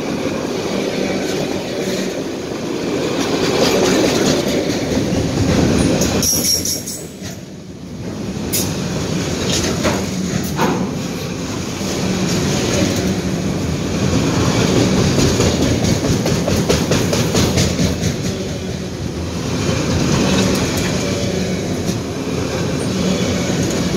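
Autorack freight cars rolling past at close range: a steady rumble of steel wheels on the rails, with runs of clickety-clack as the wheels cross rail joints. The rumble dips briefly about a third of the way in.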